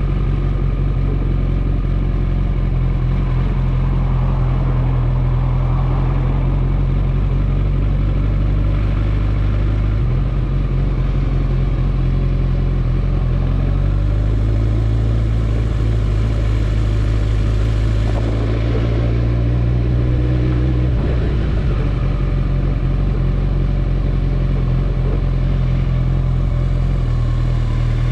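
Kawasaki ZX-14R's inline-four engine running under way, its steady note stepping to a new pitch several times as engine speed changes.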